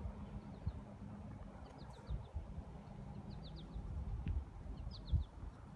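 Small bird chirping in the distance, in short runs of three or four quick high notes repeated about every second and a half, over a low rumble with a few thumps.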